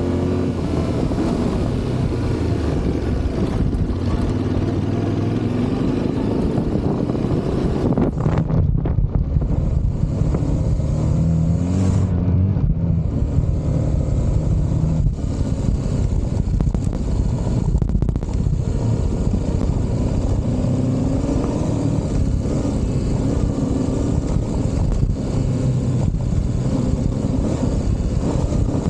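Yamaha Ténéré 700's 689 cc parallel-twin engine running while the bike is ridden off-road, the revs rising and falling as the rider works the throttle.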